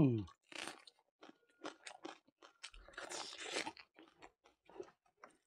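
Close-miked chewing with crisp crunching from a bite of raw red onion, broken by wet mouth clicks; a denser run of crunching comes about three seconds in.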